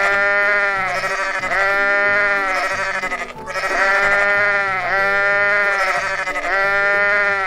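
Flock of sheep bleating: a near-continuous run of long, wavering bleats from several animals, overlapping one after another.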